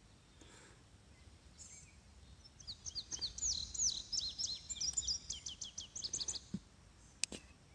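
A songbird singing a fast run of high chirping and sweeping notes for about four seconds, starting a couple of seconds in. A single sharp click near the end.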